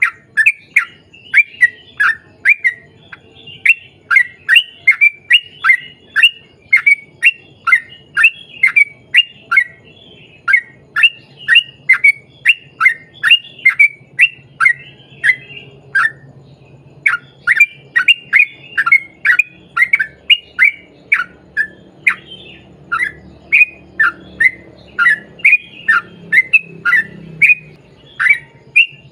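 Yellow-vented bulbul (trucukan) calling in a long, fast run of short notes that fall in pitch, about three a second, broken once by a short pause about halfway through.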